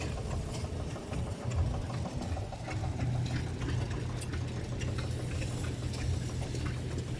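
An engine idling steadily, a low hum with faint irregular clicks over it.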